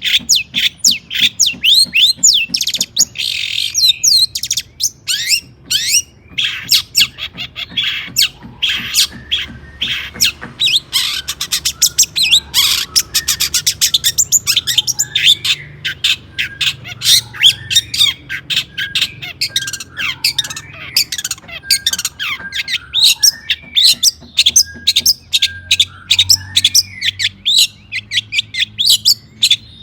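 Long-tailed shrike (cendet) singing loudly and without pause: a fast run of short, harsh, chattering notes, with some lower whistled notes woven through the middle.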